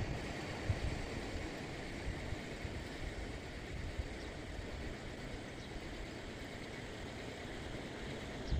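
Wind noise on the microphone: an uneven low rumble in gusts over a steady rush of wind.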